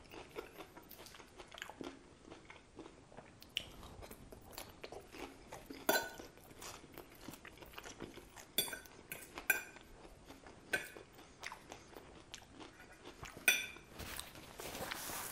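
Close-miked crunching and chewing of an iceberg lettuce salad, with scattered sharp crisp crunches. A paper napkin rustles near the end.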